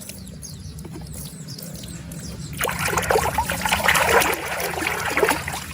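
Water running and splashing over a muddy plastic animal toy as it is washed, getting louder and busier from about two and a half seconds in.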